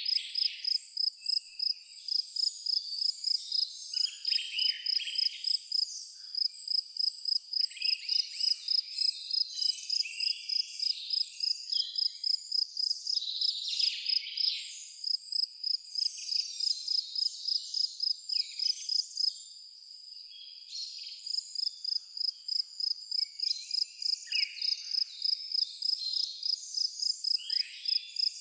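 A cricket chirps in a steady rapid pulse, about three to four high chirps a second, with one short break about two-thirds of the way in. Several birds call and sing over it.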